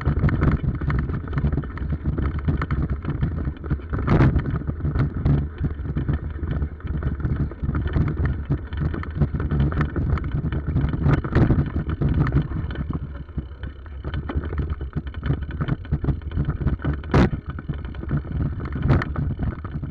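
Bicycle being ridden, with a steady rumble and wind on the microphone and a few sharp knocks and rattles.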